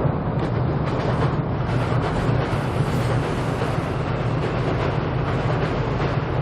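Seoul Subway Line 7 train running across Cheongdam Bridge, heard from beneath the bridge as a steady, loud rumble with a deep hum and a rushing hiss.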